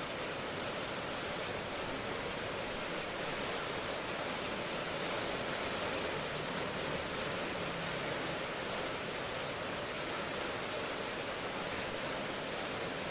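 Steady rain ambience: an even hiss of falling rain without separate drops or thunder.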